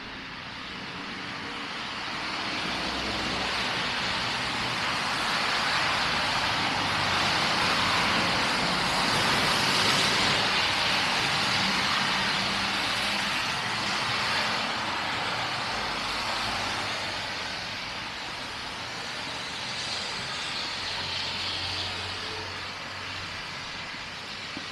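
Road traffic passing close: engine and tyre noise swell to a peak about ten seconds in, then slowly fade away.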